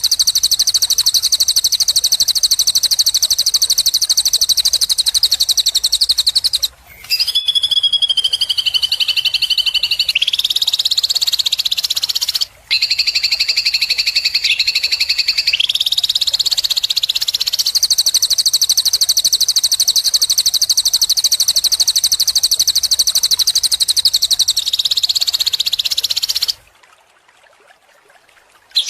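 Songbird masteran (bird-song tutor) recording: long, very rapid high trills in unbroken runs, shifting in pitch a few times, with short breaks about 7 and 12 seconds in. The sound stops about two seconds before the end, then the trilling starts again.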